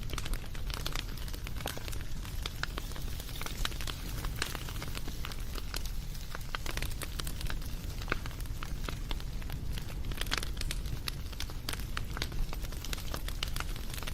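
Wood fire burning, with continual irregular crackles and pops over a low rumble of the flames.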